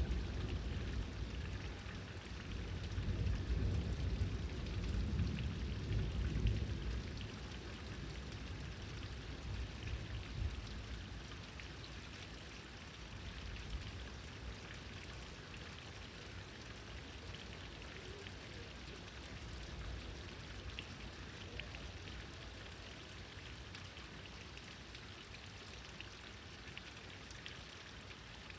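Thunder rolling, loudest in the first several seconds and dying away by about seven seconds in. Steady rain with separate drops striking continues throughout.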